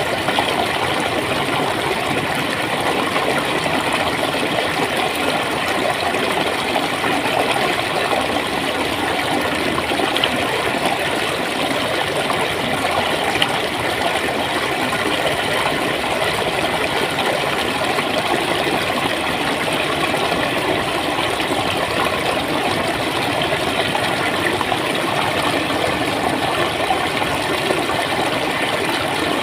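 Clear flowing water gurgling in a steady, unbroken rush.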